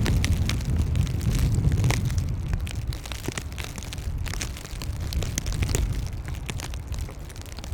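Blizzard wind buffeting the microphone, a low rumble that eases off over the seconds, with irregular sharp crunches of footsteps in snow.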